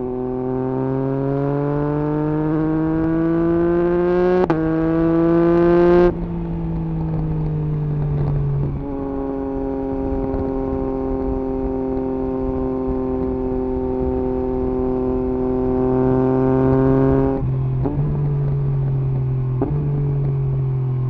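Yamaha MT-09 SP's three-cylinder engine through an Akrapovič exhaust with the dB killer removed, heard while riding. The engine pulls up in revs with a brief break about four seconds in, like a quick upshift, then the throttle shuts about six seconds in and the revs fall away. It then holds a steady cruise, with another short rise and drop and a blip near the end.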